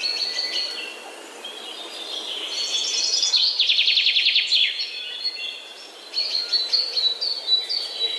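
Several birds chirping and calling, with a fast trill of rapidly repeated high notes lasting about a second midway, and a string of short repeated chirps near the end.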